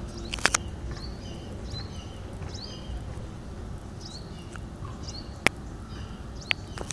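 Small birds chirping in short high notes that repeat every half second or so, over a low background rumble. A few sharp clicks stand out, two close together about half a second in and two more near the end.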